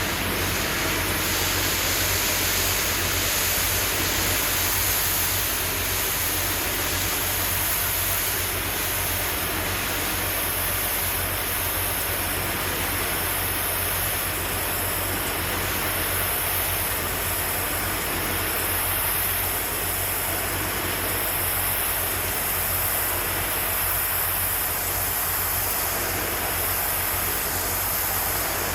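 Pressure washer spraying a precast concrete facade: a steady, unbroken hiss of the high-pressure water jet, with a constant low hum underneath.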